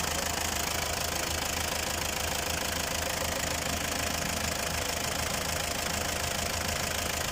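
Isuzu 4BC2 four-cylinder diesel engine running steadily, just started after a top overhaul once the injection pump timing was advanced to cure its hard starting.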